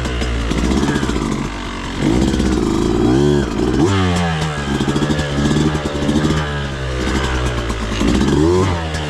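Beta 200RR two-stroke dirt bike engine revving up and down several times as the throttle is worked, with some clatter of the bike over rough ground.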